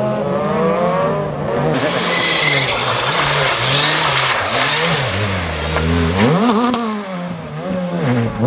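Rally car engine revving hard, its pitch climbing and dropping again and again as the driver works the throttle and gears, with a loud rushing noise over it from about two seconds in until about six seconds.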